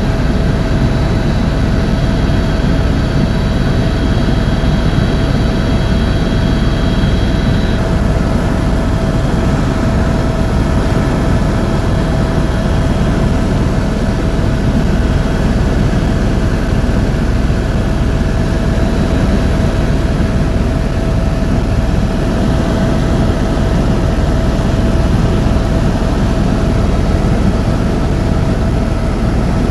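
Tour helicopter in flight, heard from inside the cabin: a loud, steady turbine and rotor drone with a constant high whine running through it. A higher thin whine drops out about eight seconds in.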